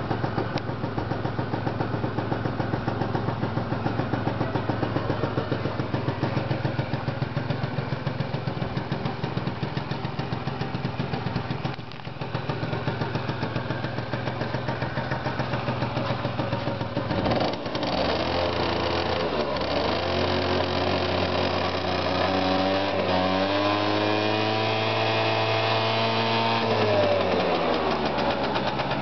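PGO Tornado scooter engine idling with an even, rapid pulse. About eighteen seconds in it is revved: the pitch climbs, holds high for several seconds, then falls back toward idle near the end.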